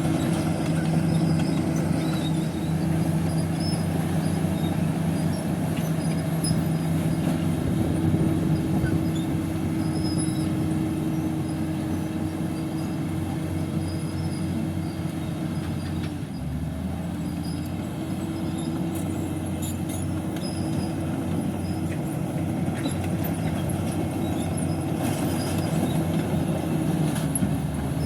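Heavy diesel earthmoving machine running steadily under work, its engine note dipping briefly about halfway through and then picking back up, over a rattling mechanical clatter.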